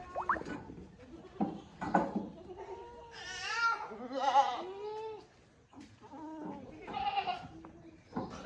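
Several Sirohi goats bleating. Loud quavering bleats come about three seconds in, again just after, and once more near the end, with lower bleats between them.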